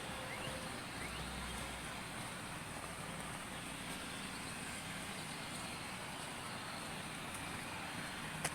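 Steady outdoor background noise with a low hum, broken by one sharp click near the end.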